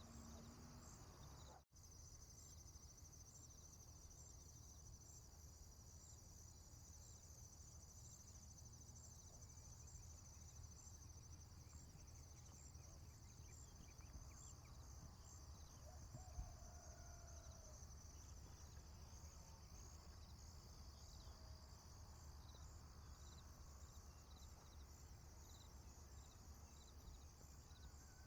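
Faint rural ambience: insects trilling steadily in a high pulsing chorus over a low rumble, with a few faint, distant bird calls. The sound cuts out for an instant near the start.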